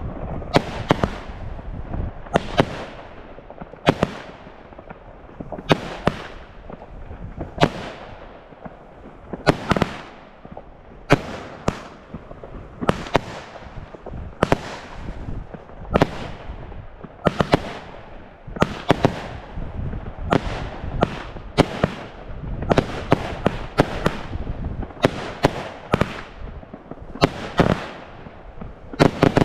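Consumer fireworks going off: a long string of sharp bangs at uneven spacing, about one or two a second, with a crackling hiss between them.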